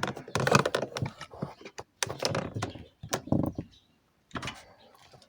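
Sharp plastic clicks, knocks and rustling as an old car door speaker and its plastic retaining tab are worked loose from the door, with a brief lull near the end.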